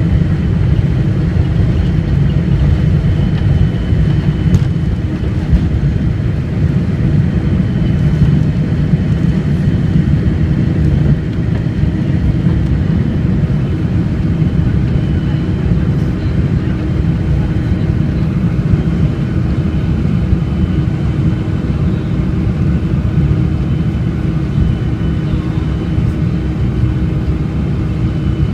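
Boeing 747-400 jet engines at high thrust during takeoff: a steady, loud, low rumble with a faint, even engine whine above it.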